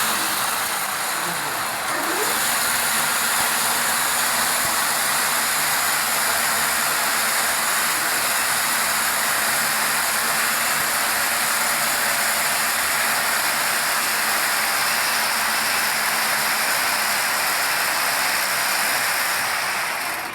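Plastic-rope-making machinery running continuously: a loud, steady, even noise with a few constant tones in it, rising slightly about two seconds in.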